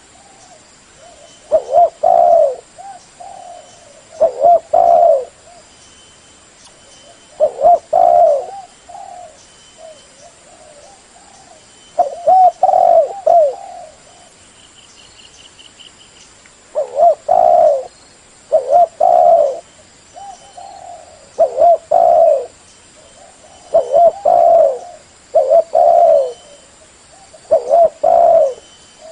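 Spotted dove cooing loudly: a dozen or so repeated coo phrases, each of two or three low notes, about every two to three seconds.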